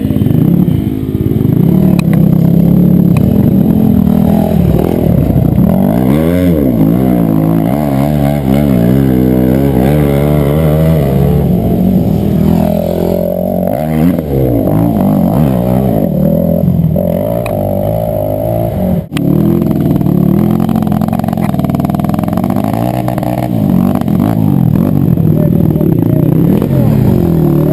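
Enduro motorcycle engines revving hard under load, the pitch swinging up and down again and again as the throttle is worked.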